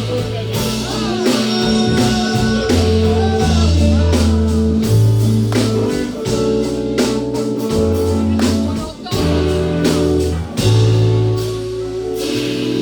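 A band playing a rock/blues cover: a bass line changing note every second or so under steady drum hits, with electric guitar bending notes above.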